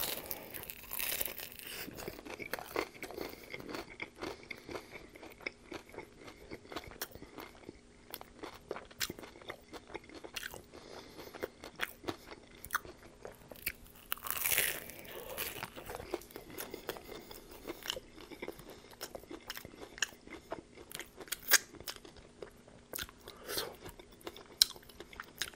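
Close-miked crunching and chewing of a panko-breaded fried chicken taco shell: a crunchy bite at the start, then continuous chewing full of sharp crackles, with another louder crunch about halfway through.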